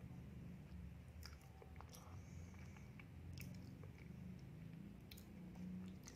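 Faint mouth sounds of someone chewing a soft donut with the lips closed, with a few small wet clicks over a low steady hum.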